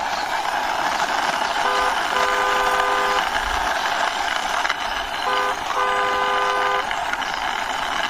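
Car horn tooting in a short-then-long pair, twice, about two seconds in and again about five seconds in, over a steady rushing noise.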